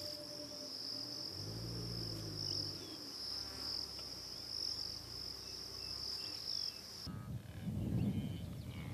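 Steady high-pitched insect chorus, like crickets or cicadas, that cuts off suddenly about seven seconds in, giving way to a brief low rumble.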